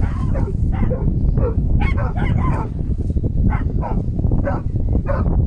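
A dog giving a run of short yips and whimpers, many brief calls one after another, over heavy wind rumble on the microphone.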